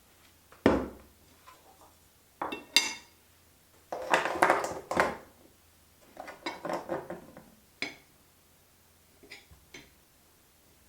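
Objects being set down very gently on a work surface: a scattered series of soft knocks and light clinks, some ringing briefly, with quiet pauses between them.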